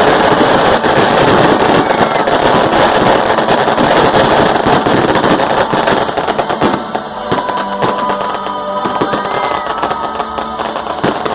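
Fireworks crackling and popping densely, thinning after about six seconds into scattered pops and crackles.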